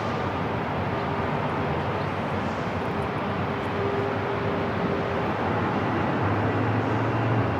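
Airport ambience: a steady rumbling noise with faint hums running through it, and a low hum swelling in about six seconds in.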